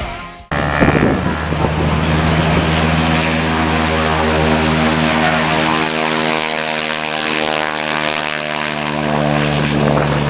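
Propeller-driven airplane engine running steadily at an even pitch. It starts after a brief cut about half a second in.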